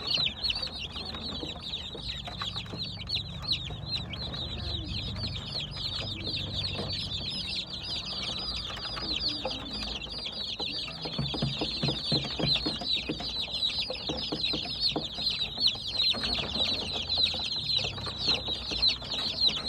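Many baby chicks chirping continuously: a dense chorus of short, high peeps overlapping each other.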